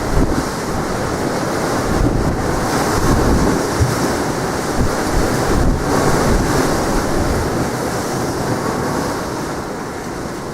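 Wind buffeting the microphone with a continuous low rumble, over the wash of sea surf.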